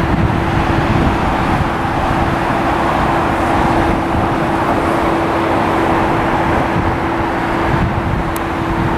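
Jet aircraft engines running, a steady roar with a constant hum running under it.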